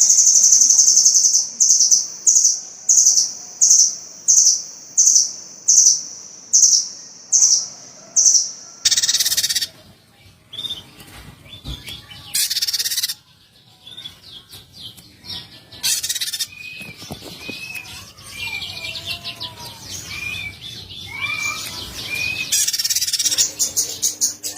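Small songbirds calling. For the first nine seconds a loud, high call repeats about twice a second; after that comes a different recording with a mix of varied chirps and short whistled notes.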